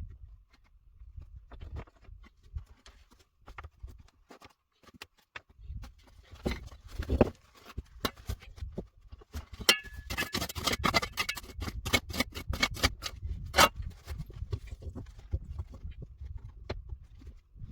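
A run of knocks and clicks over low thuds, like objects being handled. They are sparse at first and grow dense and busy through the middle.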